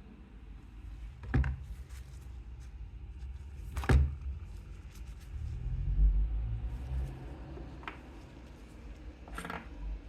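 Three sharp knocks, about a second and a half in, at four seconds and near the end, over a low, uneven rumbling handling noise.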